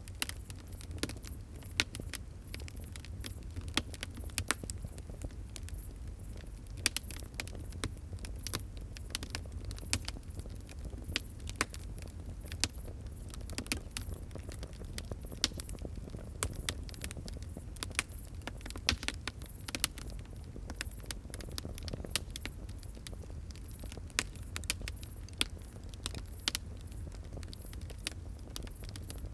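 A wood fire crackling: irregular sharp pops and snaps, several a second, over a steady low rumble of the flames.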